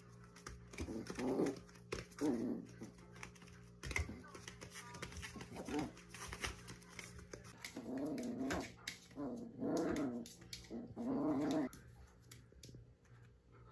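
Italian greyhound puppy growling in play as it tugs at a toy, in short bursts and then three longer growls near the end, with scattered clicks throughout.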